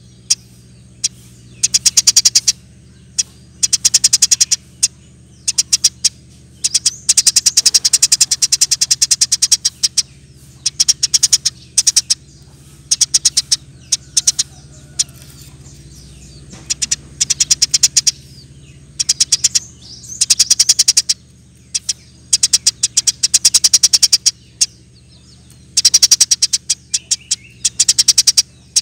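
Eurasian tree sparrow calling in rapid, tightly packed bursts of sharp chirps, each burst lasting a second or two and coming again every couple of seconds, over a low steady hum.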